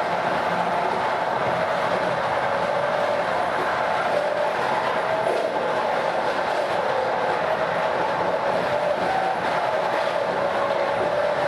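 Train wheels rolling on the rails with a wavering, singing tone over the steady rumble of the running train. The pitch drifts slightly up and down. The cause is unclear and could be a differently worn rail head or a slightly narrower gauge that makes the wheel rims rub harder on the rails.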